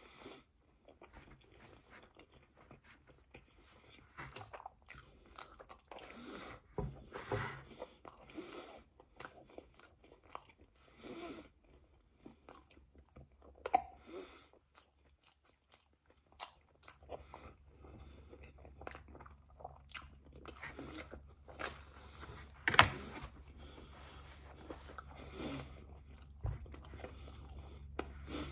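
A person chewing and biting pizza close to the microphone, with irregular wet mouth clicks and crunches. Two louder sharp clicks stand out, one about midway and one near the end.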